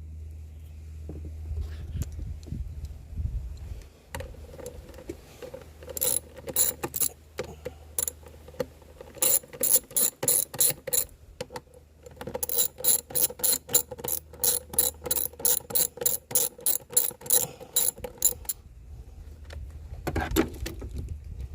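A hand ratchet wrench clicking in several runs of quick, even clicks, about four a second, with short pauses between runs.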